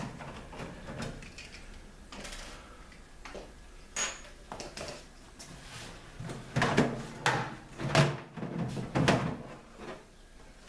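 Irregular clicks, scrapes and knocks of a screwdriver and screws working against a microwave oven's sheet-metal casing, with a run of louder knocks in the second half.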